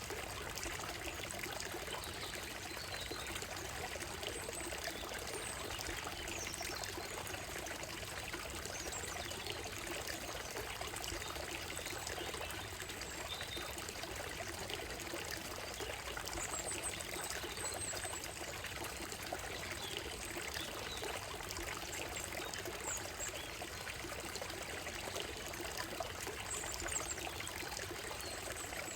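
Shallow stream running over a gravel and stone bed: a steady trickling and burbling of water. Brief high bird calls sound now and then in the trees.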